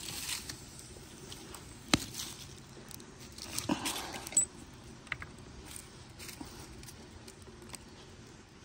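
Light metallic handling noises of cooking utensils and a pot: a sharp clink about two seconds in, a short clatter near four seconds, and faint scattered clicks.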